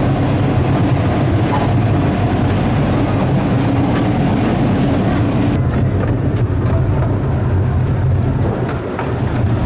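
Narrow-gauge light railway train running along its track, heard from on board: a steady low rumble of wheels and carriages with a few faint clicks.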